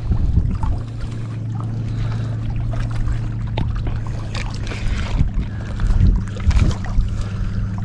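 Low rumbling buffets and knocks on a body-worn camera's microphone, over a steady low hum that runs throughout, with a few light clicks.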